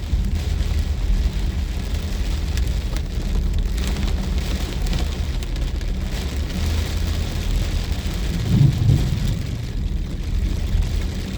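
Heavy rain falling in a steady hiss over a continuous deep rumble, which swells briefly about two-thirds of the way through.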